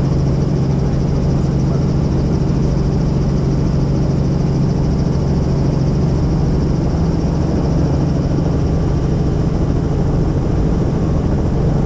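Helicopter in flight heard from inside the cabin: a steady, loud drone of engine and rotor that holds even throughout.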